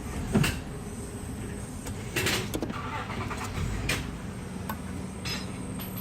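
Short clicks and a brief scrape of the engine-oil dipstick being drawn and handled, over a faint steady hum.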